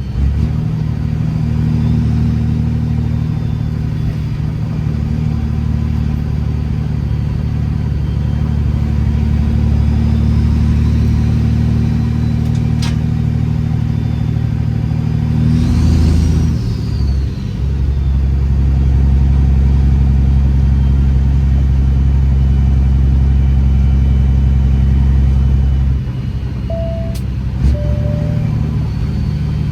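Detroit Series 60 inline-six diesel in a Peterbilt 389 glider running steadily under load, a deep, even drone. About halfway through the note breaks briefly, with a short rise and fall in pitch, then settles back louder.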